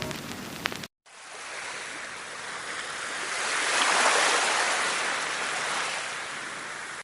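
Sea surf: a rushing wash of water noise that builds for about three seconds after a short silent break near the start, then slowly eases off.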